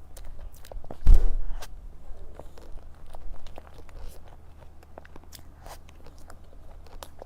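Close-miked eating sounds: a person chewing and biting cake, with many small wet mouth clicks and one loud thump about a second in.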